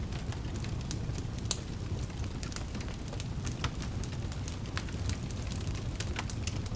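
Wood fire in a fireplace crackling: a steady low rumble of flames with sharp, irregular pops and snaps several times a second.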